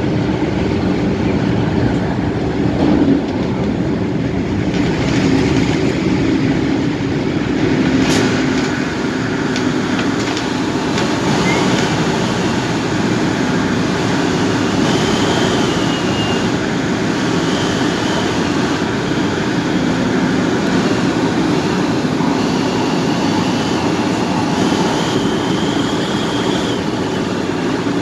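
MTR A-Train electric multiple unit running between stations, heard from inside the car: a steady rumble of wheels on rail with body noise. Faint high-pitched whines come and go in the second half.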